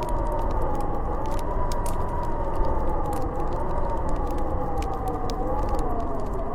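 Howling blizzard wind: a steady roar with a wavering whistle that drifts slowly lower. Over it, a wood fire in a fireplace crackles and pops.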